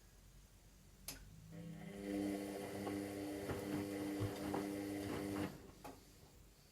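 Washing machine motor running for about four seconds with a steady hum and a few knocks inside, starting just after a click and cutting off suddenly, followed by another click: a short burst of drum turning during the wash.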